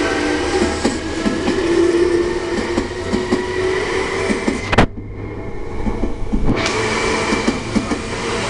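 Seibu 2000 series electric train running past at close range: a motor whine that rises in pitch, with wheels clacking over the rail joints. The higher part of the sound cuts out abruptly for about a second and a half midway, then comes back.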